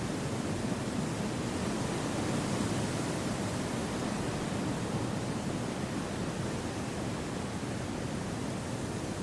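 Steady, even wind noise with no gusts or other sounds, deepest in its low rumble.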